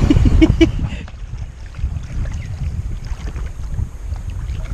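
Wind buffeting the microphone during kayak paddling, with splashes and knocks from the paddle and hull that are loudest in the first second, then scattered light water clicks.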